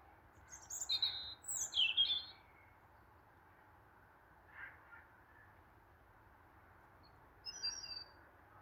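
A songbird singing: a quick phrase of high, twittering notes from about half a second in to just past two seconds, a faint lower call near the middle, and another short high phrase near the end, over faint background hiss.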